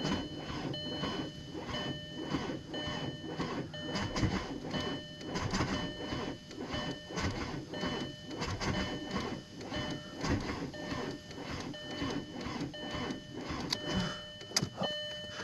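A 2001 Volkswagen Jetta TDI's 1.9-litre four-cylinder diesel is cranking over on the starter in −4°F cold. It turns in a steady rhythm but does not fire, a hard cold start.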